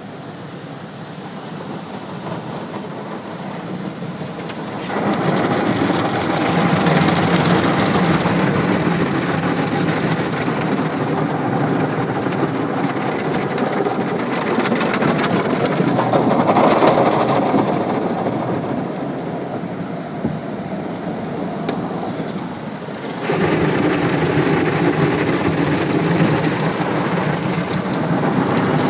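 Automatic tunnel car wash heard from inside the car: a heavy rushing hiss of water spray and washing equipment on the body. It steps up sharply about five seconds in, eases off for a few seconds past the middle, then surges again near the end.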